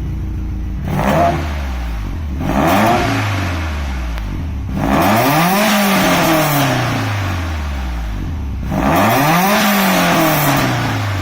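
Subaru EJ207 turbocharged flat-four idling through a Cobb cat-back exhaust with a modified midpipe, revved four times: two short blips, then two longer revs about 5 and 9 seconds in, each rising and falling back to idle.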